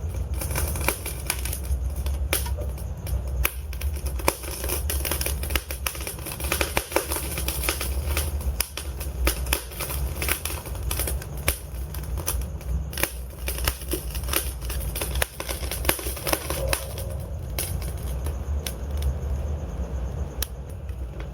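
Wood fire of burning logs crackling, with many irregular sharp pops and snaps over a steady low rumble of the flames.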